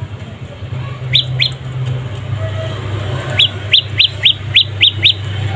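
Young prenjak lumut (prenjak pyeng) songbird calling with short, sharp rising chirps: two about a second in, then a quick run of seven in the second half. A steady low hum runs underneath.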